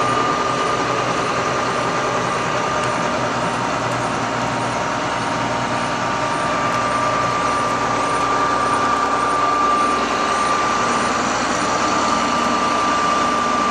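A vehicle running steadily, with a constant high whine over an even rushing noise.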